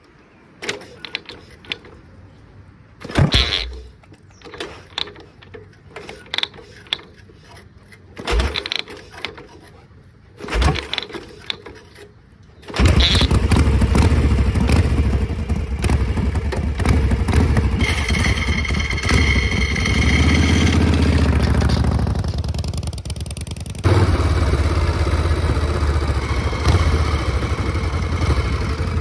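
1969 Harley-Davidson Shovelhead V-twin being kicked over: a series of separate thumps and clunks over the first dozen seconds, then the engine catches about 13 seconds in and runs loud and steady. A rev rises and falls around 20 seconds in, and the engine grows louder again at about 24 seconds as the bike is ridden off.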